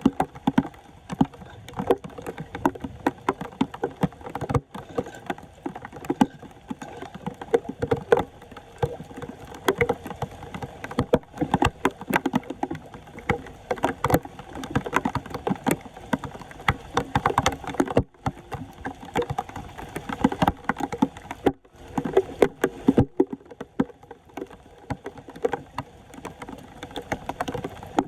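Floodwater splashing and sloshing in quick, irregular bursts, with frequent short knocks and scrapes, as debris is worked loose from a clogged street drain.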